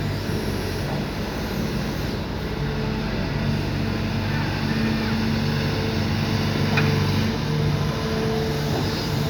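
Sumitomo SH210 long-arm excavator's diesel engine running steadily under working load, with a brief metallic clank about two-thirds of the way through.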